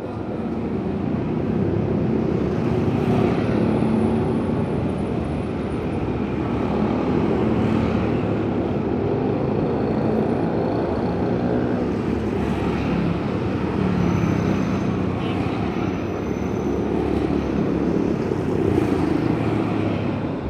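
Loud, steady rumble of motor vehicles, with engine tones rising and falling, that cuts off suddenly at the end.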